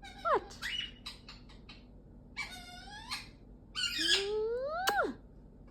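Galah calling: a short call rising and falling in pitch at the start, a few clicks, a harsh screech about two and a half seconds in, then the loudest part, a longer raspy call that climbs and drops sharply near the end.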